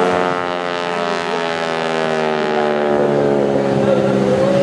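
North American T-6 Texan flying by, its Pratt & Whitney R-1340 radial engine and propeller giving a steady drone whose pitch falls slowly over the first few seconds, then holds.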